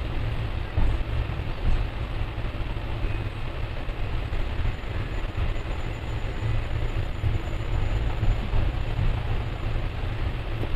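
Passenger train running along the line, heard from aboard: a steady, deep rumble of wheels on rails and the moving coaches.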